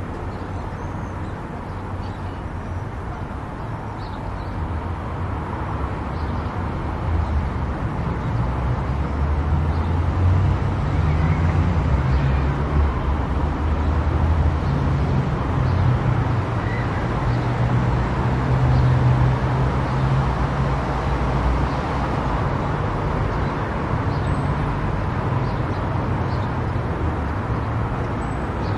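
A car travelling on an expressway, with steady tyre and engine noise and a low rumble. The noise grows louder about a quarter of the way in and eases slightly near the end.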